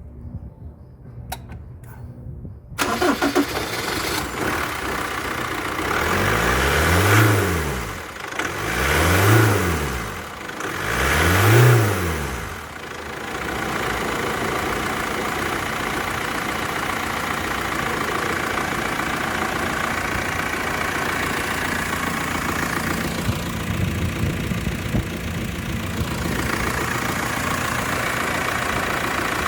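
2018 Foton Tunland engine cranked and started after a few clicks, then revved up and back down three times before settling into a steady idle.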